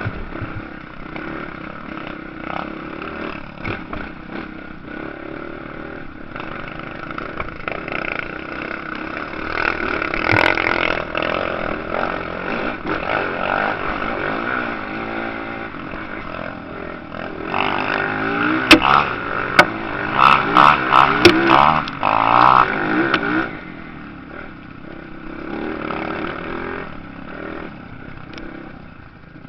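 Motocross motorcycle engines running and revving on the track. About two-thirds of the way through it gets loud for several seconds as a bike revs hard in quick bursts close by, then fades back to a more distant engine sound.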